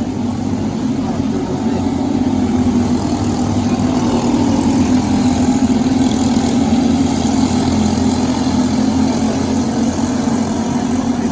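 Briggs & Stratton LO206 four-stroke kart engine running steadily at racing speed, a continuous drone that swells a little in the middle.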